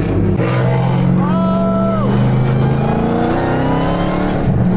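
Dodge Hellcat's supercharged V8 running with a steady deep rumble, its note rising as it is revved about three seconds in.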